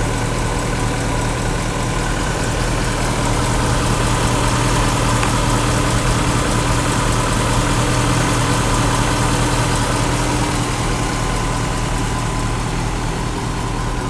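1972 Ford LTD's 351 Windsor V8, fed by a two-barrel carburettor, idling steadily with the hood open.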